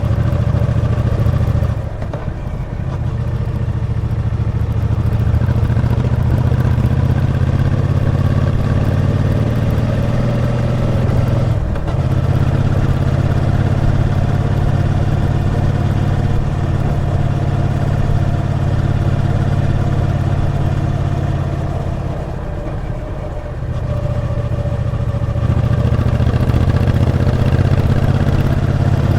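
Triumph Bonneville T120's 1200 cc parallel-twin engine pulling steadily on the move. The engine note drops briefly about two seconds in and again about twelve seconds in, then eases off for a couple of seconds around twenty-two seconds in before pulling again.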